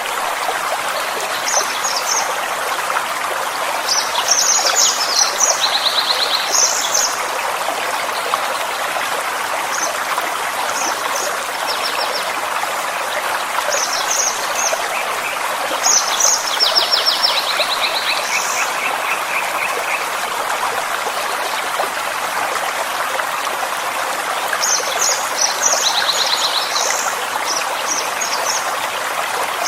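Forest stream flowing steadily, with small songbirds singing over it in scattered bursts of short high chirps and a few rapid trills.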